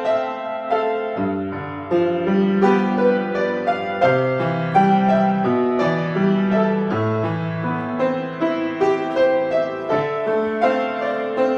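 Solo piano playing: a flowing melody over a moving bass line, with clearly struck notes that ring and fade.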